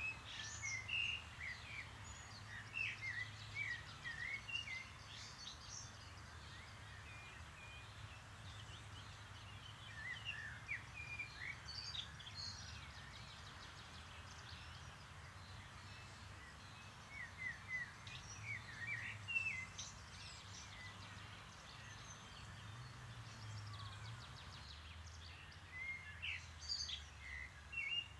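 Birds chirping and twittering in four bursts of quick, short notes, over a steady low hum.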